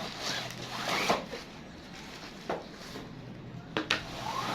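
Packaging being handled during an unboxing: rustling and rubbing in the first second, a knock about two and a half seconds in, and two sharp clicks near the end.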